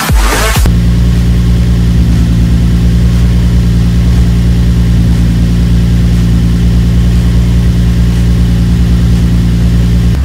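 Nissan 350Z's VQ35DE 3.5-litre V6 idling steadily, just after its first start following a valve-stem seal replacement. A snatch of electronic dance music cuts off within the first second.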